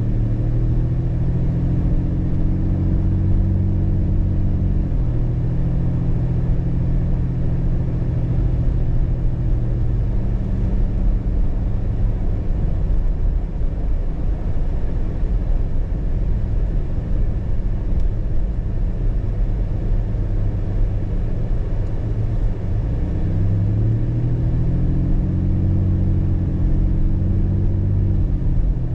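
Car engine and road rumble while driving, a steady low drone. Its engine tone steps down about five seconds in, gives way to plain rumble, then climbs again about 24 seconds in.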